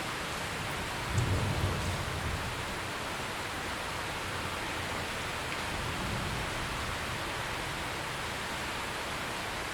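Steady rain with a low rumble of thunder about a second in that fades over a second or so, and a fainter rumble near six seconds.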